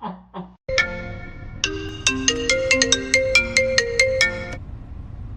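Mobile phone ringtone: a short, quick melody of clear, bell-like notes, about four or five a second, that breaks off near the end.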